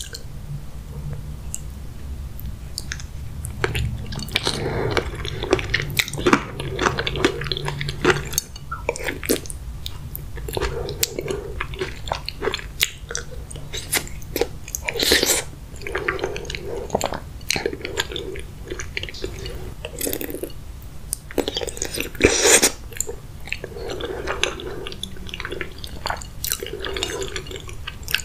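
A person chewing soft-boiled eggs coated in thick sauce, with many short, sharp mouth clicks between bites.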